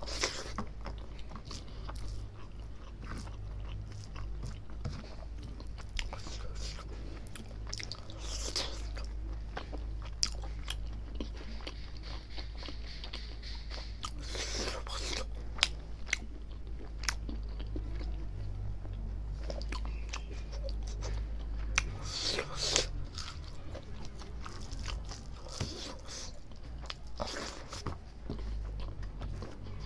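Close-up chewing and biting of a person eating rice and gelatinous mithun skin curry by hand, with many wet mouth smacks and clicks, over a steady low hum.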